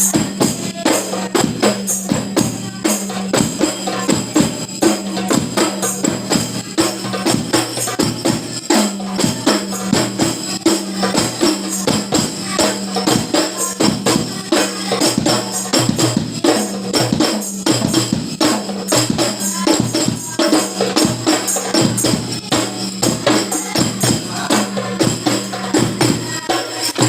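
Terbang frame drums being practised: a fast, steady rhythm of hand strikes that goes on without a break.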